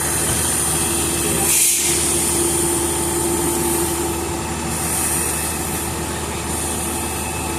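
Fire truck engine running steadily under a continuous hiss, with a brief louder rush about a second and a half in.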